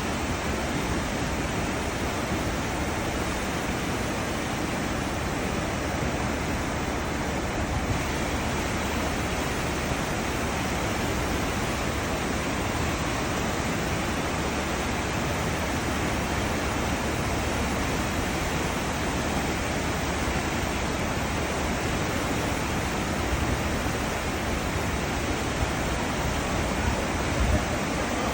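Cruise ship's wake: a steady rush of churning seawater.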